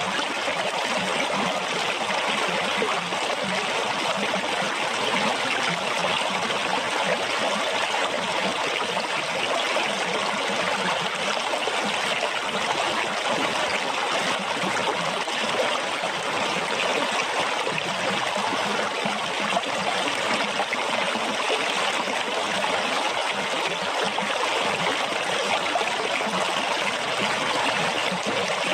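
Running water splashing and flowing steadily, an even rush with no change or pause.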